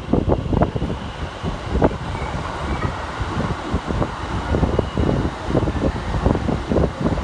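Keikyu 1000-series electric train rolling through the station, its wheels clattering over rail joints and points with a steady rumble underneath.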